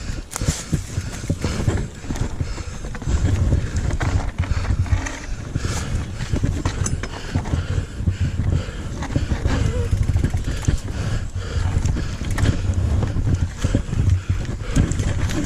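Mountain bike descending a rough dirt trail: wind buffeting the microphone over a steady rumble of tyres on the ground, with frequent clicks and rattles from the bike.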